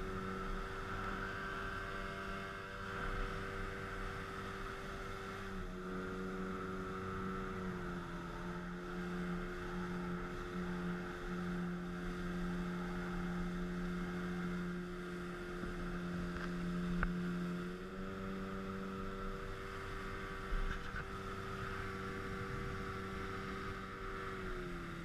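Speedboat engine running steadily under way, its note stepping slightly up and down a few times as the throttle shifts.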